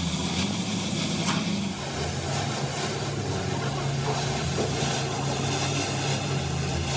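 A machine or engine running with a steady low drone, and a single sharp click about a second in.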